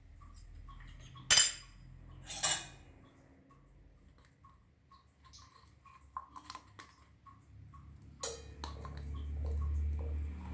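Metal kitchen utensils clinking against steel dishes: two loud ringing clinks about a second and a half in and again a second later, a few lighter clicks later on, and another sharp ringing clink near the end, followed by a low hum. Faint regular ticking, about two or three a second, runs underneath.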